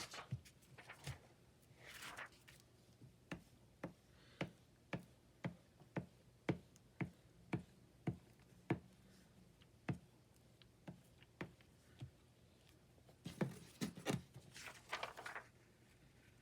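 Paper collage work at a craft table: a run of sharp light clicks, about two a second, with paper rustling about two seconds in and again near the end.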